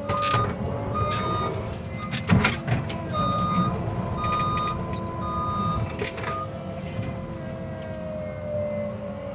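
Cat 306 excavator's diesel engine running under work, with its travel alarm sounding a series of short beeps about a second apart. A loud sharp crack comes a little over two seconds in.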